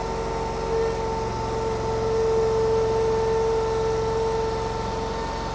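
Petrol engine of a KYMRON YTL 23-2 stand-on mini skid steer running steadily under load as the boom and bucket are worked together, with a constant whine over the engine note.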